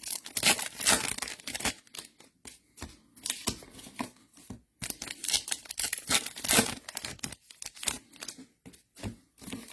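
Trading-card pack wrappers being torn open and crinkled as the cards are handled, in an irregular string of short rips, rustles and crackles.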